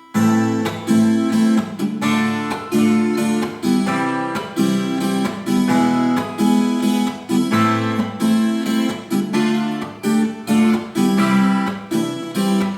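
Guitar strummed in a steady, even rhythm, playing open chords (no barre) in A minor: A minor, D minor, C major and E major.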